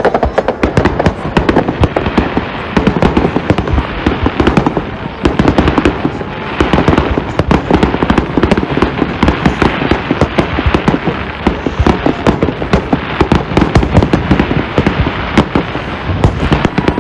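Fireworks display going off in a continuous rapid barrage of bangs and crackles, many bursts overlapping with no pause.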